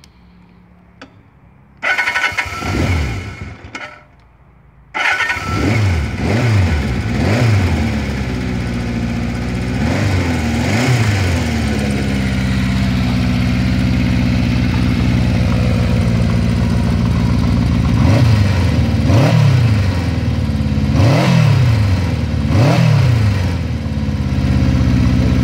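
Kawasaki Z400 F motorcycle engine starting: it turns over for about two seconds and stops, then about a second later catches and runs. It idles with repeated throttle blips, the revs rising and falling, and a run of several quick revs near the end.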